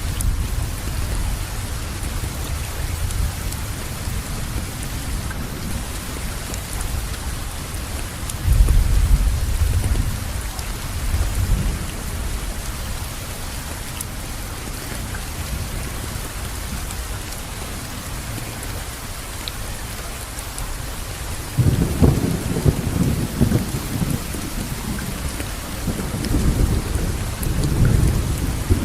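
Steady rain falling, with low rolls of thunder about a third of the way in and again through the last several seconds.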